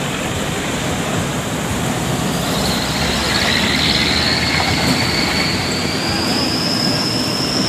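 Heavy truck running, with a high, thin squeal that comes in about two and a half seconds in and slowly rises in pitch.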